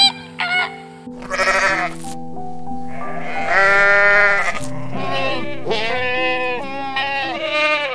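Goats bleating over soft piano music: one long bleat about three seconds in, then four shorter, wavering bleats. Brief flamingo honks right at the start.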